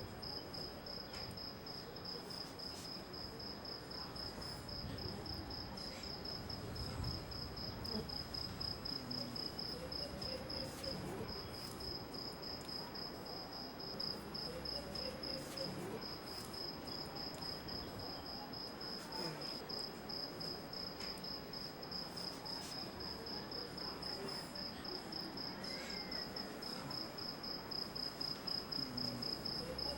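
A cricket chirping in a steady, rapid, even pulse, high-pitched, over a low indistinct background rumble.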